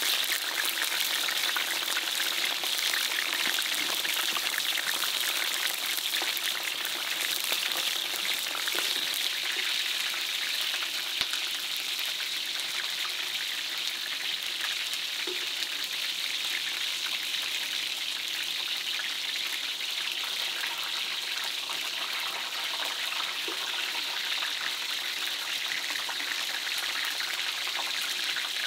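Food frying in hot oil: a steady sizzle with many fine crackles.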